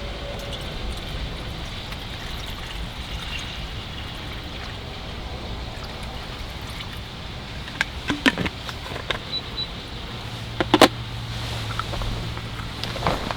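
Steady rushing wind noise with a low rumble, and a handful of sharp clicks and knocks about two thirds of the way in.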